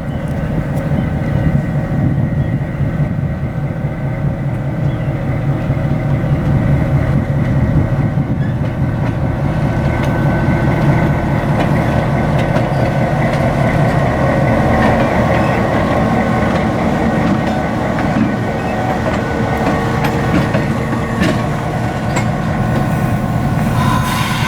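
EMD GP-7 diesel locomotive and cars on the move, the two-stroke engine running steadily with steel wheels clacking over the rails. A hiss starts near the end.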